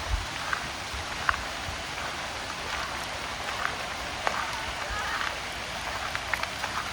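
Steady summer rain falling, an even hiss with scattered sharper drops ticking throughout.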